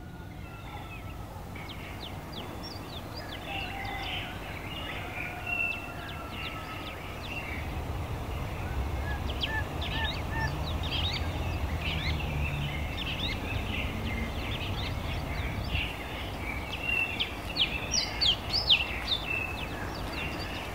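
Many small birds chirping in quick, overlapping calls, louder near the end, over a low steady rumble.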